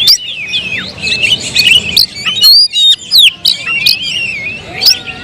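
Several caged songbirds singing at once: a dense, unbroken run of quick rising and falling whistles, chirps and sharp clicks.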